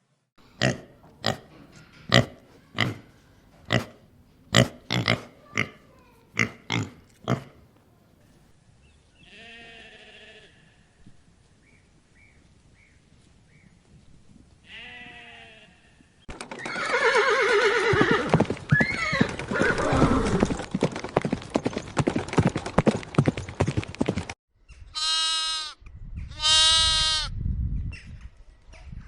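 Farm animal sounds in a run of short clips: about a dozen sharp knocks in the first seven seconds, a few brief calls, then a long loud stretch of rough animal noise, and two short high calls near the end.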